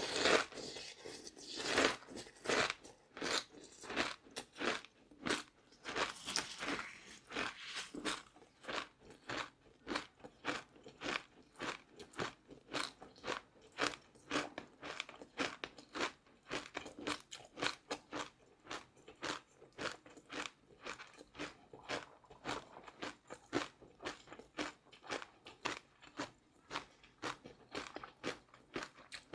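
Close-miked chewing of crunchy food: a few loud crunching bites near the start, then steady crunchy chewing at about two chews a second.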